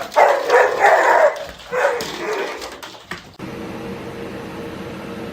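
A dog barking and whimpering in a few loud, drawn-out cries. About three and a half seconds in, the cries cut off abruptly and a steady low hum takes over.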